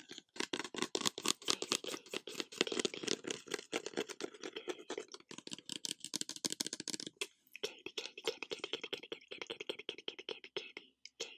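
Close-up ASMR trigger sounds: a dense, rapid run of irregular clicks and crackles right at the microphone, with a brief pause about seven seconds in.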